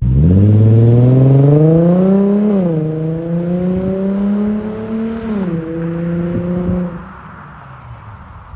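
Infiniti G35xs 3.5-litre V6 through an ISR single-exit exhaust, accelerating hard. The engine note climbs, drops back at two upshifts about two and a half and five and a half seconds in, climbs again after each, then falls away sharply about seven seconds in.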